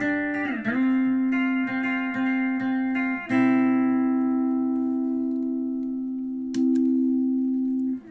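Guitar played through an Átik Nuuk analog pedal: the pitch bends down about half a second in, then repeated picked notes, then a long held note that slowly fades and is struck again near the end.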